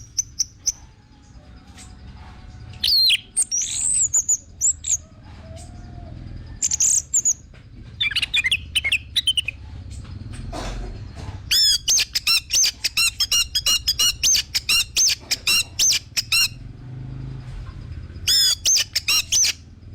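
Orange-headed thrush (anis merah) singing a varied song of loud whistled phrases. In the middle comes a long run of rapid repeated notes lasting about five seconds, and another phrase follows near the end.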